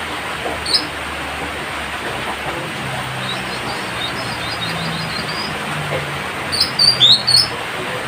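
Citrine canary-flycatcher calling: short high chirps, then a quick twittering run, and a louder burst of sharp notes near the end, one of them dropping steeply in pitch. A steady hiss and a faint low hum run underneath.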